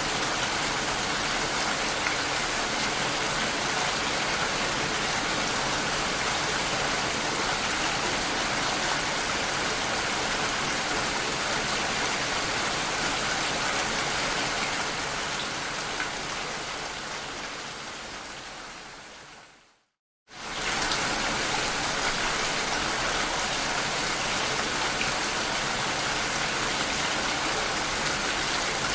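Steady rain heard through a glass door. Past the middle it slowly fades out to a brief silence, then starts again suddenly at full level.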